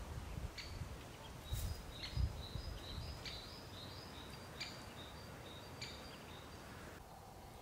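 A small bird calling in a series of short high chirps over a quiet outdoor background, with a couple of low thuds about two seconds in.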